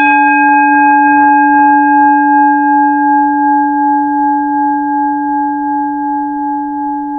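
A meditation bell struck once, ringing on in a long, steady tone with a slow waver in its loudness and fading gradually. It marks the start of a meditation session.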